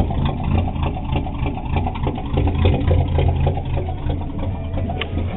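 A 1972 GMC pickup's 350 small-block V8 idling just after starting, with a steady low rumble. The exhaust is cut off under the cab with no muffler, which makes it super loud.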